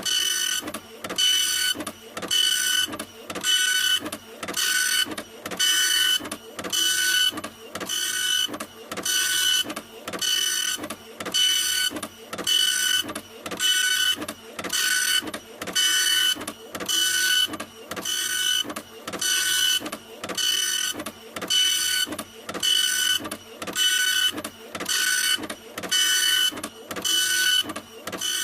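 Printer running, its mechanism making a whining hiss in regular passes about once a second, each pass stopping briefly before the next.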